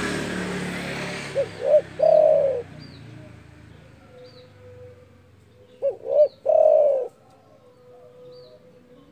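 Spotted dove (derkuku) cooing: two phrases about four seconds apart, each two short notes followed by one longer drawn-out note. A vehicle passing fades out at the start, and small birds chirp faintly.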